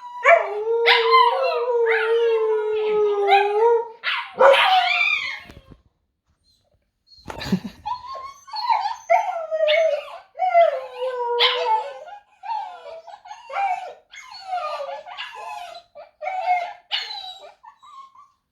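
Husky-cross dog howling: one long steady howl of about four seconds and a shorter one after it. After a pause and a thump comes a long run of short howls that rise and fall, the husky "talking".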